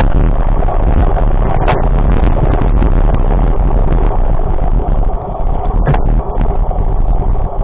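A vehicle on the move: a loud, steady rumble, with two brief clicks partway through.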